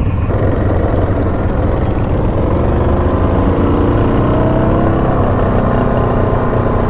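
Yamaha Grizzly 700 ATV's single-cylinder four-stroke engine running under way, its pitch rising about halfway through as it accelerates.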